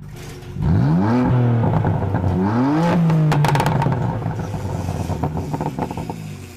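BMW F80 M3's twin-turbo inline-six engine accelerating: the engine note climbs, dips about a second in, climbs again, then holds steady and fades toward the end. A cluster of sharp clicks about three and a half seconds in.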